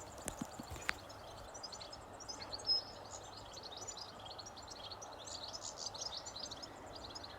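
Many small birds chirping and twittering in quick, high notes over a faint steady outdoor hiss. A single soft thud stands out a little under three seconds in.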